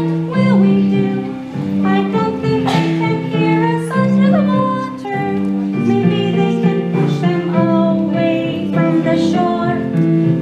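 Children singing an opera number together over a recorded instrumental accompaniment with a plucked, guitar-like part.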